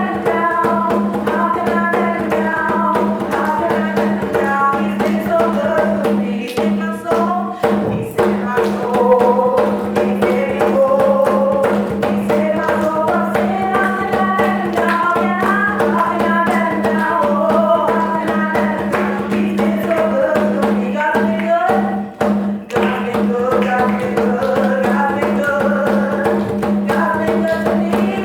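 Gospel worship music: voices singing a song over steady held instrument chords and a continuous percussion beat.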